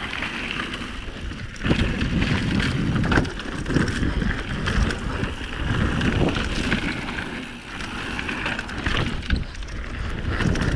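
Mountain bike descending a rough dirt trail at speed: tyres rolling over the ground, with chain and frame rattling and knocking over bumps, and wind buffeting the microphone.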